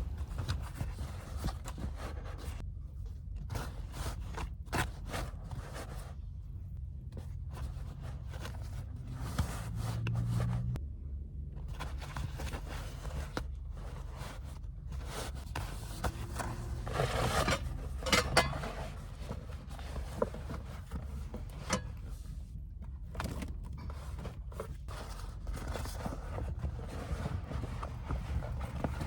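Clothes and bags being handled while laundry is sorted: irregular rustling, scraping and small clicks, busier about a third of the way in and again past the middle, over a steady low hum.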